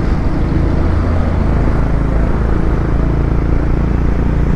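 Motorcycle engine running at a steady cruising speed, with wind noise rushing over the microphone while riding.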